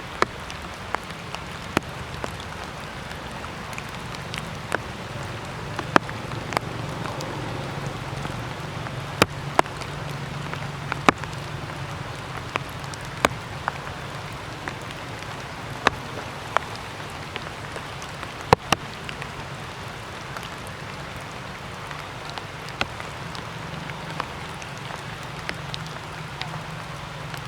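Rainwater dripping after a shower: irregular sharp drops, about one or two a second, landing over a steady wet hiss.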